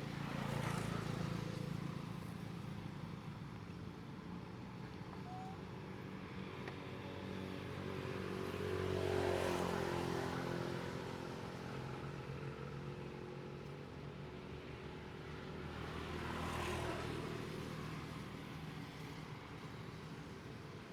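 Motor vehicle traffic running steadily, with two vehicles passing, one about nine seconds in and a quieter one about sixteen seconds in.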